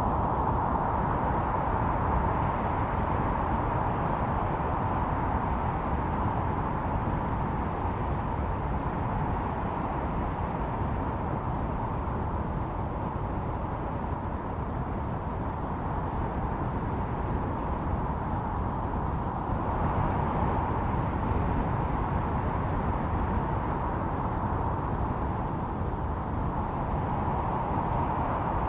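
Snowstorm wind blowing steadily, a howling band that swells and eases over a low rumble.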